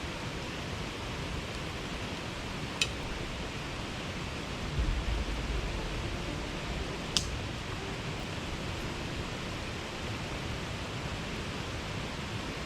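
Steady hiss of rain falling. There are two sharp clicks, and a low rumble a little before the middle.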